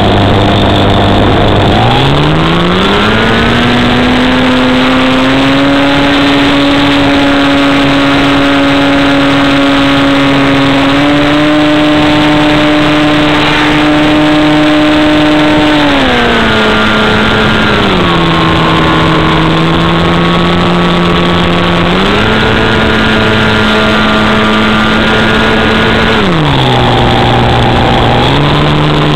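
RC model airplane's engine and propeller running under changing throttle: the pitch climbs steeply about two seconds in, holds high, then drops and rises again several times.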